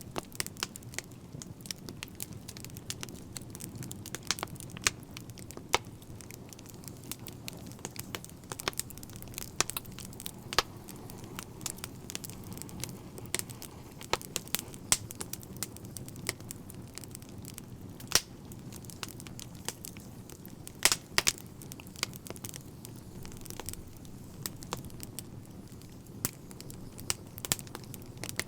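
Wood fire crackling: a steady low rumble of flames with irregular sharp pops and snaps, a few of them much louder than the rest.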